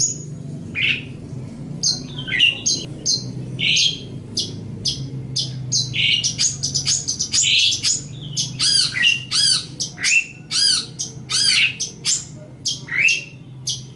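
Long-tailed shrike (cendet) singing a busy, varied song of short sharp chirps and harsh squawky calls, with a fast run of repeated arched notes in the middle. A steady low hum sits under it.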